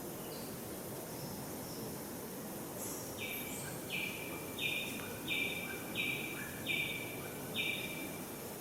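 A bird calling seven times in a row: short, scratchy, high notes about one every 0.7 seconds, over steady outdoor background noise.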